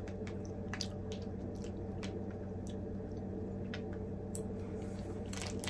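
A person chewing a strawberries-and-cream chocolate bar, with soft wet mouth clicks scattered through, over a steady low hum.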